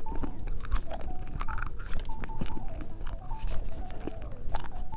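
Close-miked chewing and biting of watermelon bubble gum, with a steady run of sharp, wet mouth clicks.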